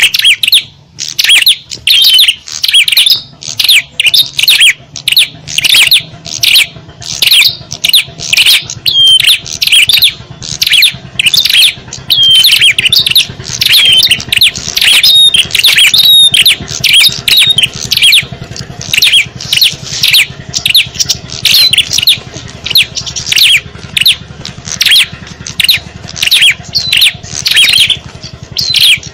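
Noisy chatter of small songbirds: rapid high chirps and squawks, several a second, overlapping without pause. It is a bird-lure (pikat) call used to draw small birds in.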